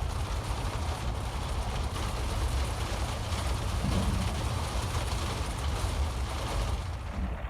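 Loud, steady rain drumming on polycarbonate greenhouse panels, a dense hiss of many fine drop-ticks with a low rumble underneath.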